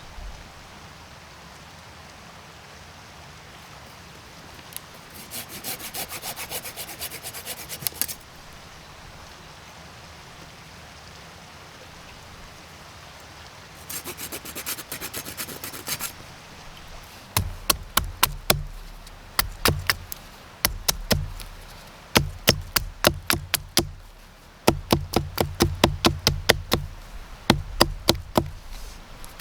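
Firewood being cut with a small hand saw in two short spells of quick strokes, then split or chopped: a long run of sharp wooden knocks with dull thuds, several a second, in bursts.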